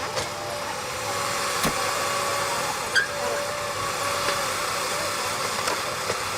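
A vehicle engine running steadily, with a few sharp clicks about a second and a half in and again near the middle.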